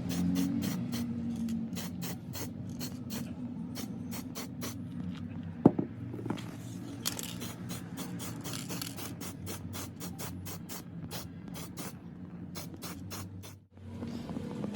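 Repeated scraping strokes on metal, about four a second, as a hand tool works over a part, with one sharp click about halfway through.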